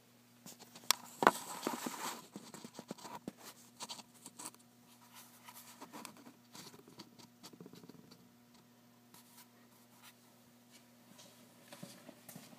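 Quiet scraping and rustling handling noise with two sharp clicks about a second in and scattered small clicks after, over a faint steady low hum.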